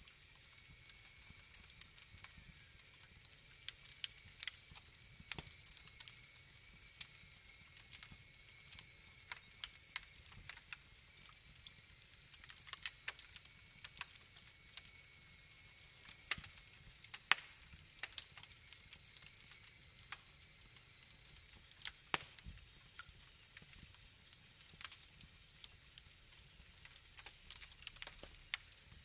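Wood fire crackling: irregular sharp pops and snaps of burning logs over a low hiss, with a faint steady high whistle through the first two-thirds.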